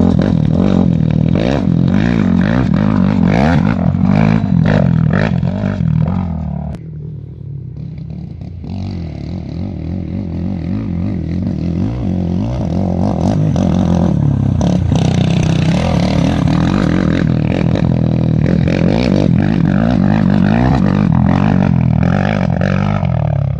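An engine running loudly with a wavering pitch, easing off about six or seven seconds in, then building back up and holding steady.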